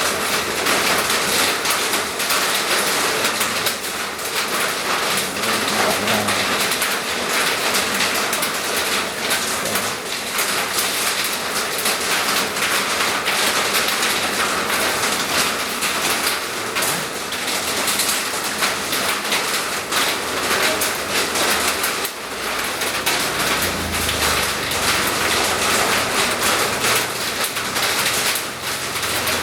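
Steady rain falling, a dense even hiss. A low rumble joins it about three quarters of the way through.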